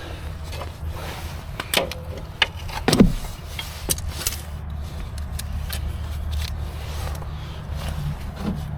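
Car engine idling with a steady low rumble, with several sharp clicks and knocks over it in the first half, the loudest about three seconds in.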